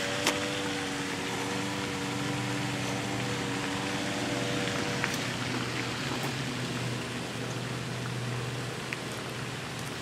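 A 1997 Ford Thunderbird's 4.6-litre V8 idling steadily, heard from behind the car.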